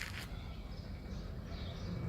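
Small birds chirping, a sharp chirp right at the start and fainter calls later, over a low steady rumble.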